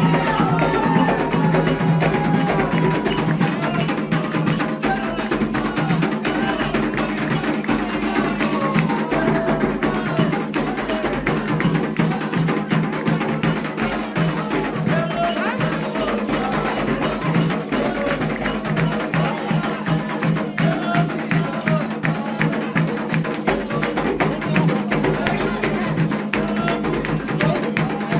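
Candomblé ritual music for Xangô: hand drums and a sharp clacking percussion keep a fast, steady rhythm, with voices singing, heard most clearly near the start.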